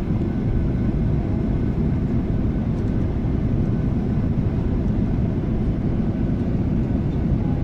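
Cabin noise inside a Boeing 737-800 taxiing after landing: the steady low rumble of its CFM56 turbofan engines at taxi power and the airframe, with a faint steady whine above it.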